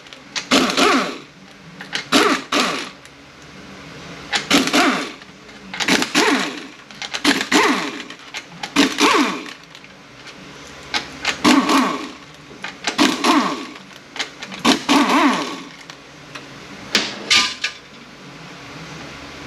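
Power ratchet running in short bursts, about ten of them, to back out the 13 mm valve body bolts on a Mercedes 722.118 automatic transmission.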